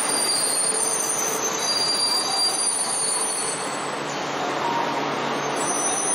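E4 series double-deck Shinkansen train at the platform: a steady rushing noise with thin, high squealing tones that come and go.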